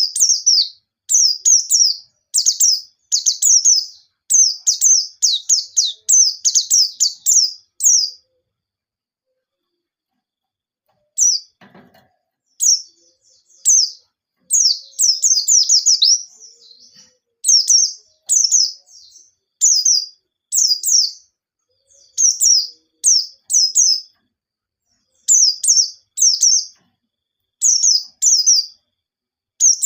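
A white-eye (pleci) singing in rapid bursts of very high, sharp, down-slurred chirps, uttered in quick strings. This is the fast 'nembak' song that bird-keepers prize. The song breaks off for about three seconds near the start, then resumes in short phrases.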